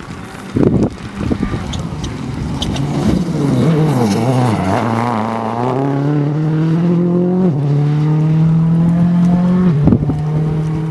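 Rally car engine near the camera: its pitch falls as the car slows, then climbs as it accelerates away, with a gear change about seven and a half seconds in and another near the end.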